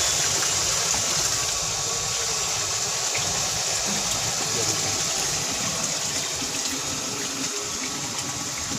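Water gushing steadily from the outlet of a deep-well ejector (jet) pump running after repair: the pump is primed and delivering water again.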